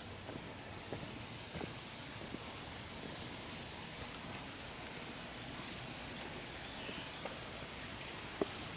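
Quiet outdoor morning ambience: a steady hiss of air and rustling, with the walker's footsteps in the first couple of seconds and a single sharp click near the end.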